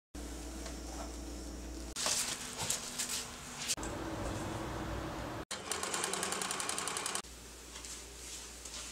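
Domestic sewing machine stitching in several short bursts, with a fast, even run of needle strokes partway through.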